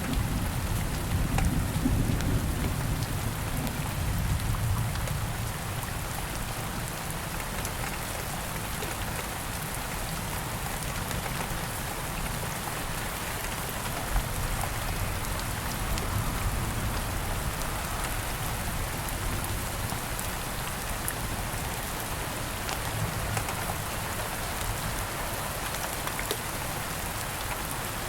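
Steady rain falling, with a low rumble of thunder that dies away over the first few seconds. Faint sharp crackles of a campfire pop now and then, one louder pop about halfway through.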